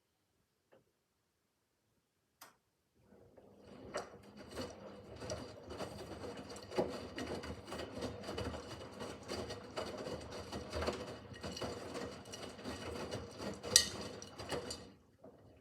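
Miele W5801 front-loading washing machine turning its drum during the easy-care 30 °C wash: after a pause, the motor starts about three seconds in and runs with a steady whine, with the tumbling laundry knocking irregularly. There is one sharper click near the end, and then the drum stops.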